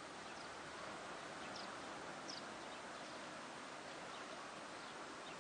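Faint outdoor park ambience: a steady hiss with a few brief, high bird chirps, the clearest about one and a half and two and a half seconds in.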